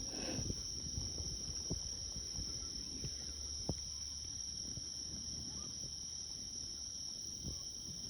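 Steady chorus of crickets and other night insects, with a low rumble underneath and a few faint ticks.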